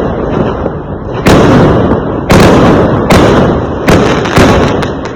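Fireworks going off: a quick series of loud, sharp bangs, about one a second, each trailing away into a noisy decaying tail before the next.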